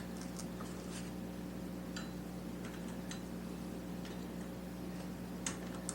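Scattered light metallic clicks and ticks, irregular and about ten in all, from a bolt and small parts being handled and threaded by hand on a motorcycle engine mount, over a steady low hum.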